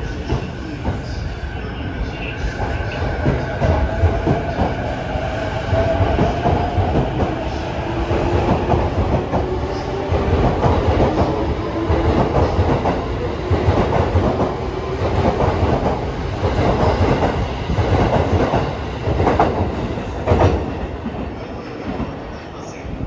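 Electric train moving along a station platform, with wheels clattering over rail joints. Two motor whines rise slowly in pitch, the sign of the train speeding up as it pulls out.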